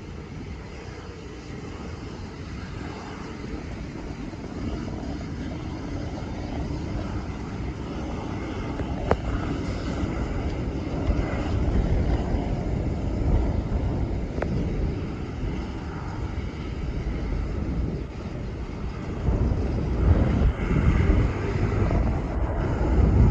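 Airplane engine noise: a broad rumble that builds steadily louder as the aircraft comes closer, loudest and most uneven near the end.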